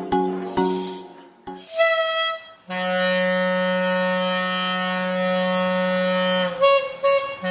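Homemade bamboo balloon horn, a stretched balloon vibrating against a bamboo tube as it is blown, sounding one long, steady, reedy low note for about four seconds, then a few short blasts near the end. A few struck musical notes come first.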